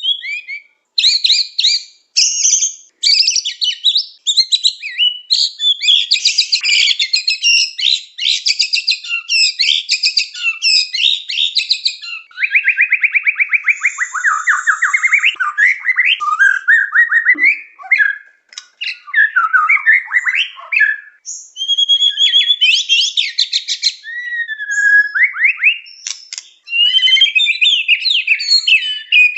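White-rumped shama singing a long, varied full song: fast chattering trills, a long rattling run about halfway through that falls in pitch, and clear rising and falling whistles, with only brief pauses.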